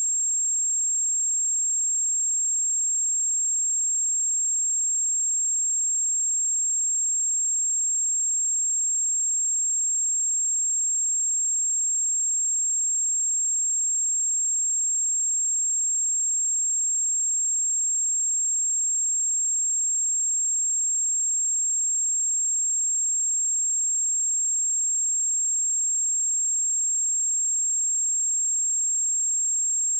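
A steady pure sine-wave test tone at 7488 Hz, a single high-pitched whistle-like tone held at constant level.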